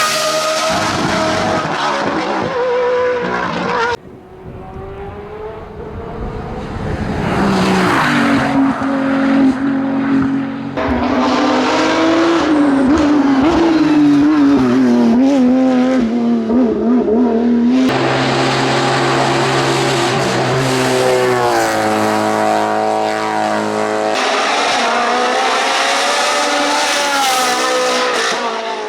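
Hillclimb racing car engines at full throttle, revving and rising and falling in pitch through gear changes, over several spliced clips. About four seconds in the sound drops off suddenly, then an engine grows steadily louder as a car approaches.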